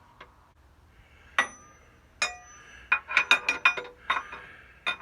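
Light metallic clinks of tools and steel oil-line fittings being handled, each with a short ring. One clink comes about one and a half seconds in and another just after two seconds, then a quick run of clinks follows in the second half.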